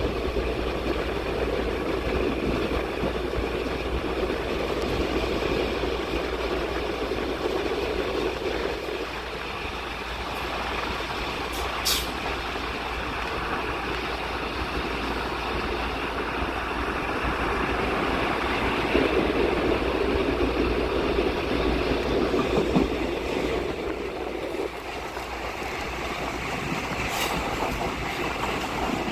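Plan U diesel-electric multiple unit running, a steady rumble that swells and eases, with two short sharp clicks, one midway and one near the end.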